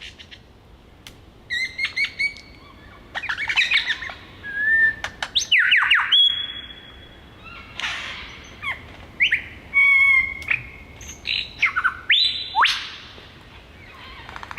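Male superb lyrebird singing a quick medley of mimicked calls of other birds: clear whistles, steep falling and rising sweeps, chirps and short rapid rattling trills, changing from one call to the next every second or so.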